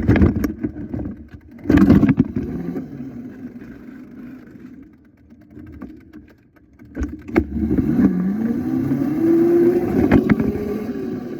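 Small motorbike engine running, with a couple of loud knocks near the start. It falls quieter toward the middle, then picks up again from about 7.5 s, its pitch rising and then easing back as it revs.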